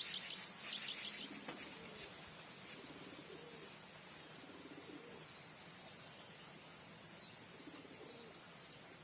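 Steady high-pitched insect trill, fast and evenly pulsing, typical of a cricket or cicada. A few bird chirps sound over it in the first second or so.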